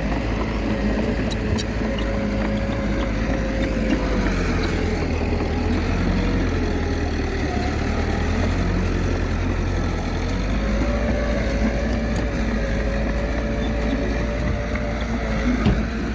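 Komatsu D21A mini bulldozer's diesel engine working steadily, its pitch sagging a few seconds in and picking up again near the middle, with a deep rumble and a few faint sharp clicks.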